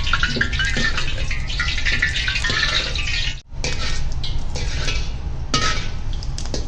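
Steady kitchen noise: a continuous hiss over a low rumble, with a few faint clinks. It drops out briefly about three and a half seconds in.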